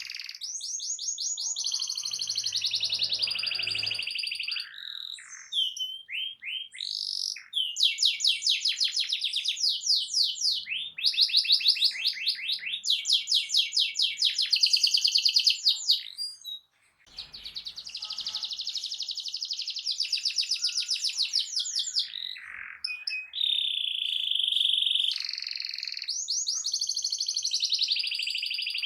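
Domestic canary singing loudly: fast trills of repeated high notes, switching from one rolling phrase to the next every second or two, with a brief break about seventeen seconds in. It is the kind of loud, continuous canary song played to provoke other canaries into singing back.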